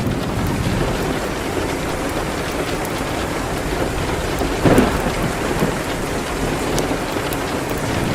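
Steady heavy rain, a dense even hiss, with one brief louder crack about halfway through.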